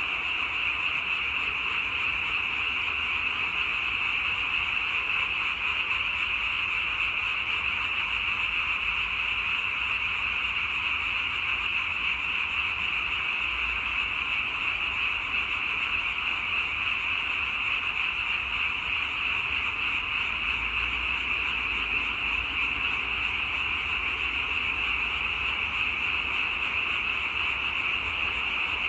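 Dense chorus of many frogs calling at once, a steady wall of sound with no pauses.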